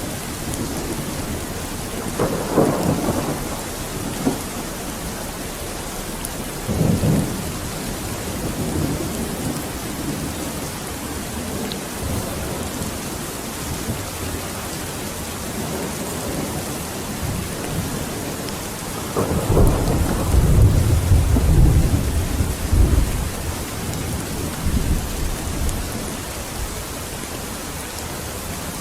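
Steady heavy rain with thunder rumbling through it: short rumbles about two and seven seconds in, and a longer, louder roll of thunder about two-thirds of the way through.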